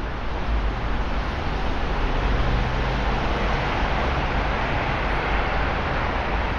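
Traffic on a rain-soaked road: a steady hiss of wet tyres, spray and rain over a low engine rumble, swelling slightly about two seconds in.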